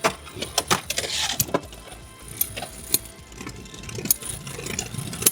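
Beyblade X spinning tops colliding in a plastic stadium: an irregular scatter of sharp clicks and knocks over a steady spinning whir.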